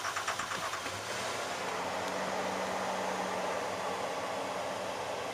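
Overheated Ford 4.0 engine running with a rapid, even clatter for about the first second. Then a steady rushing noise takes over. This is the sound of an engine ruined by overheating, which the owner thinks is done for.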